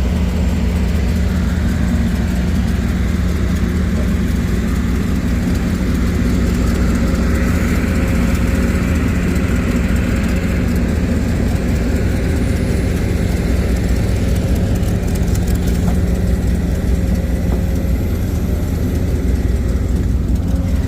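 A vehicle engine running steadily at an even speed, a low constant drone with no changes in pitch.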